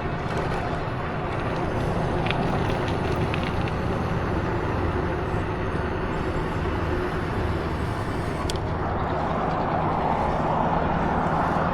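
Steady running noise of a vehicle in motion: a low rumble under an even hiss that grows stronger about nine seconds in.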